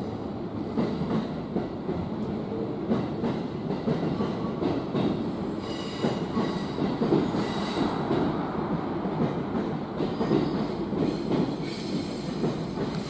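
N700A Shinkansen train running over station points as it pulls away: a steady low rumble of wheels on rail, with scattered clicks and brief faint high wheel squeals now and then.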